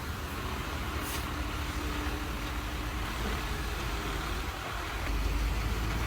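Heavy road vehicle running, a steady low engine rumble with road noise, which grows stronger about five seconds in.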